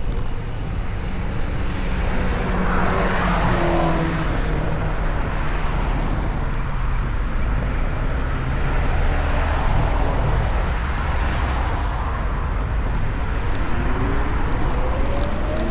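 Wind and road noise riding on a VMoto Stash electric motorcycle through city traffic, with a low steady rumble. Near the end a whine rises steadily in pitch, as of the motor speeding up.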